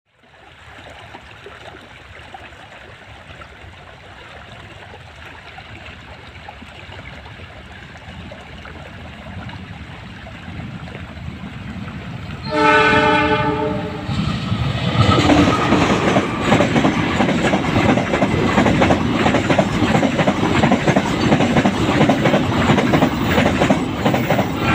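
Freight train hauled by a CC 206 diesel-electric locomotive, growing louder as it approaches for about twelve seconds. The locomotive sounds its horn once for about a second and a half. The engine and wagons then pass close by with a dense clickety-clack of wheels over the rails.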